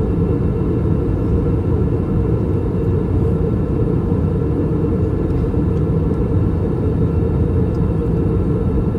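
Steady low rumble inside the cabin of an Airbus A321 in descent: airflow and engine noise heard from a passenger seat, with faint steady tones above the rumble.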